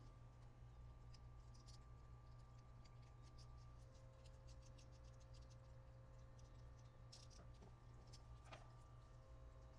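Near silence: a low steady room hum with faint, scattered small clicks and taps, a cluster of them in the first half, like small parts and tools being handled at a workbench.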